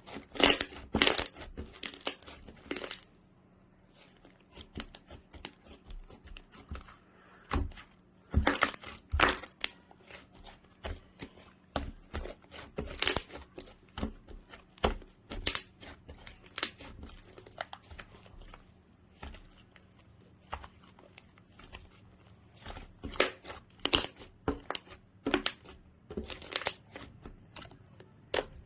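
Fluffy clay-mixed slime being squeezed, stretched and pressed by hand, giving irregular clusters of sharp pops and crackles with short quiet gaps between them.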